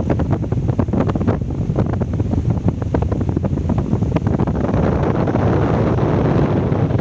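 Wind buffeting the microphone: a loud, uneven rush of noise with many short gusts, smoothing out somewhat near the end.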